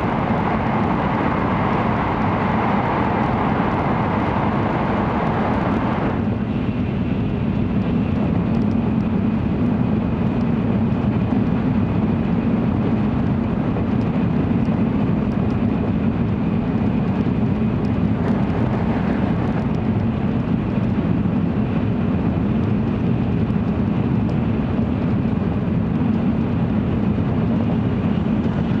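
Running noise inside the passenger cabin of an N700-series Shinkansen train. A loud rushing roar in a tunnel drops away abruptly about six seconds in as the train comes out into the open, leaving a steady low rumble.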